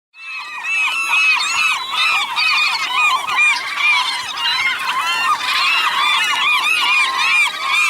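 A large flock of gulls squabbling over food: a dense, loud chorus of many overlapping calls, coming in abruptly at the start.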